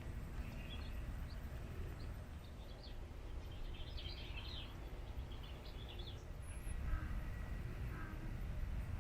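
Wild birds chirping and calling in short notes, busiest about four seconds in, over a steady low rumble.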